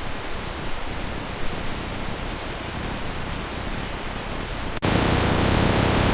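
Steady rain falling, a continuous hiss. About five seconds in the sound jumps abruptly to a louder, fuller rush, as at an edit between recordings.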